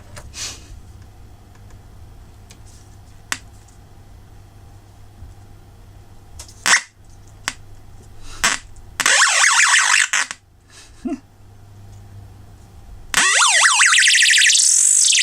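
Noise-maker IC driving a small speaker: a low hum with scattered clicks, then loud, harsh electronic screeching with sweeping pitch about nine seconds in and again from about thirteen seconds. The pitch glides up to a peak and back down as a fingertip pressed across the contacts, in place of the adjustment resistor, changes the resistance.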